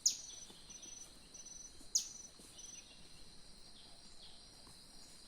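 Forest insects buzzing steadily, with a high chirping trill in short repeated pulses. Twice, about two seconds apart, a loud sharp whistle sweeps quickly downward, like a bird's call.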